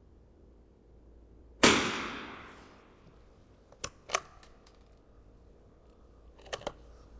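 A single .22 LR rifle shot rings out with a reverberant tail lasting about a second. Two sharp mechanical clicks follow about two seconds later, and a quick pair of clicks comes near the end.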